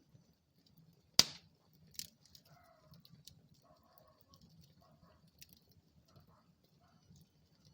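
Wood fire burning in a fireplace: a low steady rumble of the flames with scattered crackles, a sharp loud pop about a second in and a smaller one shortly after.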